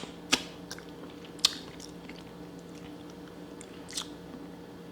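Blue crab shell being cracked and picked apart while eating: three short sharp cracks, near the start, about a second and a half in and about four seconds in, over a faint steady hum.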